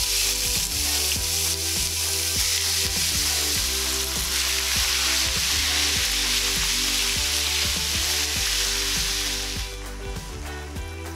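Raw chicken gizzards dropped into hot oil in a nonstick frying pan, sizzling loudly from the moment they land and being stirred with a plastic spatula. The sizzle falls away about ten seconds in.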